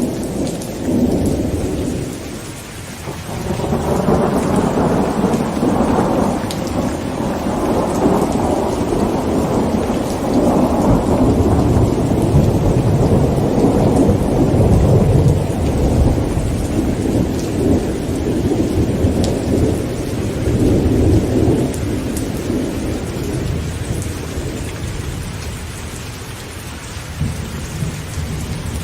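Heavy rain falling on a tent, with rolling thunder. A short rumble comes at the start, then a long roll builds from about four seconds in and slowly fades over some twenty seconds.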